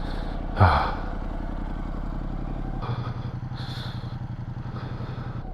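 Motorcycle engine idling steadily while the bike stands still, with a brief rustle about half a second in.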